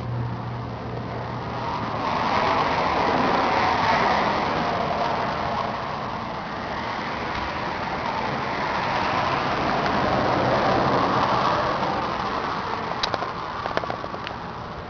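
Motor vehicle noise that swells and fades twice, with a few sharp clicks near the end.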